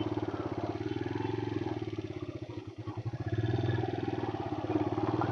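150 cc motorcycle engine running while riding, easing off about two and a half seconds in and picking up again a second later.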